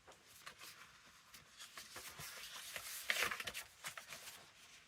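Sheets of printed paper being handled and shuffled, a few light rustles and slides, with a louder paper rustle about three seconds in.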